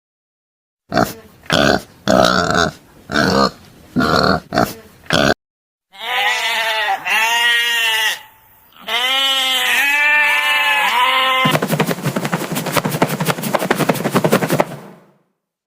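A series of farm animal calls: about seven short grunts, then a run of pitched, bleat-like calls, then about a second before the end a fast, rasping, buzzing call lasting a few seconds.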